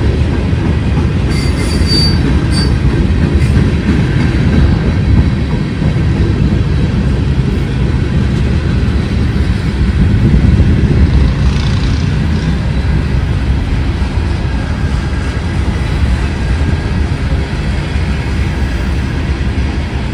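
Train cars rolling past on the track with a steady heavy rumble, and a brief high wheel squeal about two seconds in.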